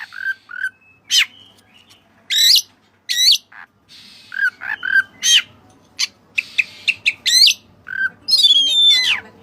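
Oriental magpie-robin (kacer) singing: a varied run of loud, sharp sweeping whistles mixed with short lower whistled notes, with a fast warbled phrase near the end.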